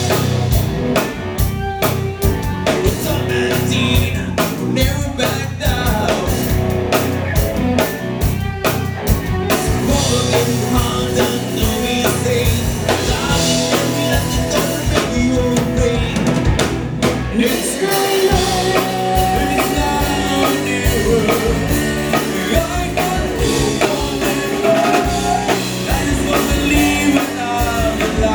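A band playing a rock-pop song: a steady drum-kit beat with guitar and bass, and singing over it.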